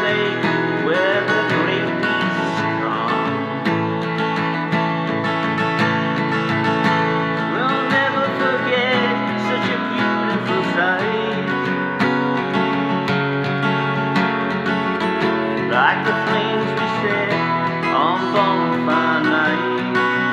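Strummed acoustic guitar backing in a song's instrumental passage, with a melody line that bends and slides in pitch above the chords.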